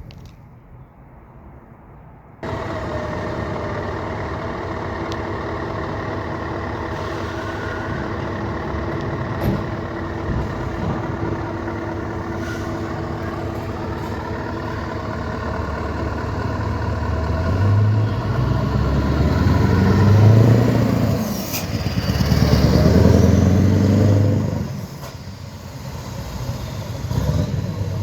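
Scania V8 truck engine running steadily, its note swelling up and down in a few strong surges in the second half, as when the truck accelerates or revs.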